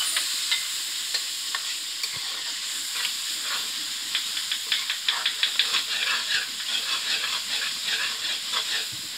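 Tomato-and-spice masala sizzling in hot oil in a metal kadai as a metal ladle stirs and scrapes the pan, being fried down (bhuna) with a splash of water. The steady sizzle carries many quick scraping clicks from the ladle, thickest in the second half.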